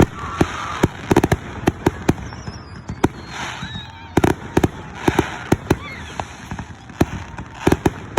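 Fireworks finale: shells bursting in quick succession, a rapid run of bangs and crackles, several a second.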